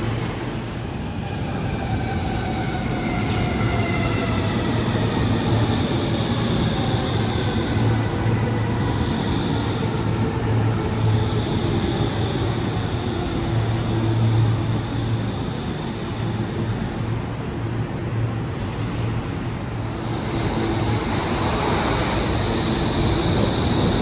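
Stockholm Metro train running on the track, its whine falling slowly in pitch over the first several seconds. A high wheel squeal comes and goes over a steady low rumble.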